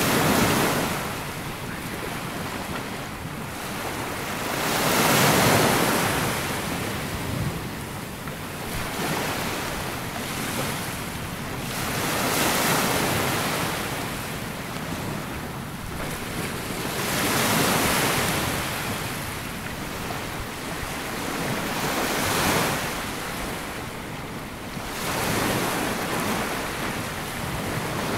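Waves breaking and washing up onto a sandy beach, the surf swelling and fading about every five seconds.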